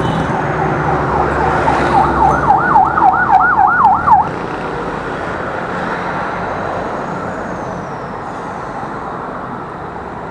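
A siren sounding in a rapid yelp, about four rises and falls a second, starting about a second and a half in and cutting off about four seconds in, over steady road traffic noise.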